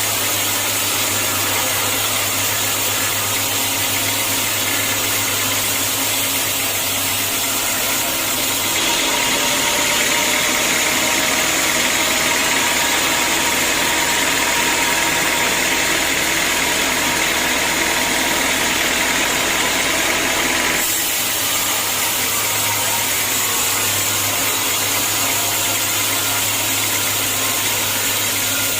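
Sawmill machinery running steadily with a constant engine hum. From about a third of the way in to about two-thirds, the sound turns abruptly brighter and a little louder, then switches back.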